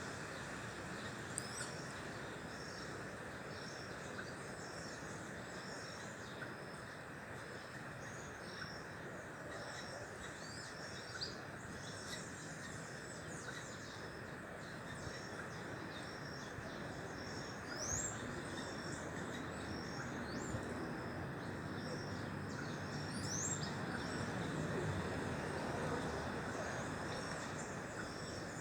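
Birds chirping: a short high call repeating about once a second, with a few sharper rising calls now and then, over steady background noise.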